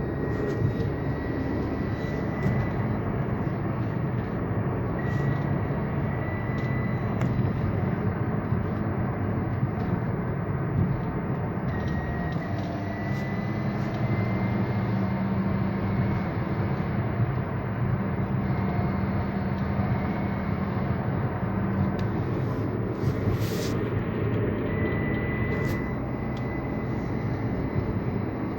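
Toyota Yaris running, with a high-pitched whine that comes and goes several times, rising slightly in pitch, and appears only when the accelerator is pressed.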